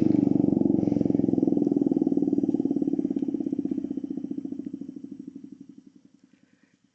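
Model 5 outdoor warning siren's rotor winding down after a brief spin-up: a low growl with a fast pulsing beat that fades and slows over about six seconds.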